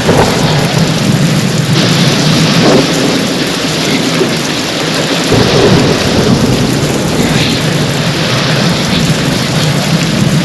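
Heavy rain falling steadily, with thunder rumbling low underneath; the rumble deepens about five seconds in.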